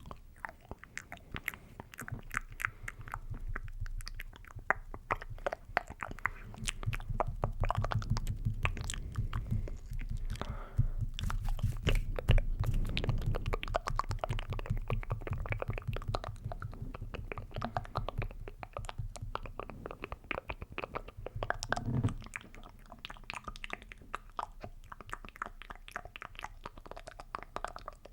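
Close-up ASMR mouth sounds: rapid, dense wet clicks and smacks of lips and tongue against the microphone. A low rumble lies underneath for most of the stretch and drops away a little after twenty seconds in.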